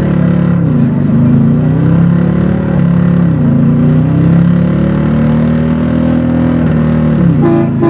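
1997 Chevy K1500 pickup's engine through straight-piped true dual exhaust, pulling hard under acceleration. Its pitch climbs and then drops sharply at each gear change, three times, as the transmission upshifts through the gears.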